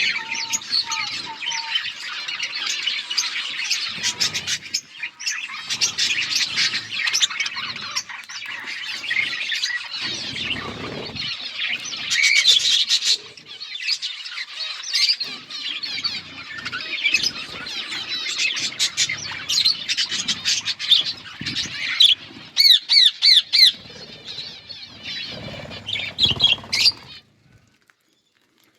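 Budgerigars chattering and chirping continuously in a busy warble of squawky calls, stopping suddenly near the end.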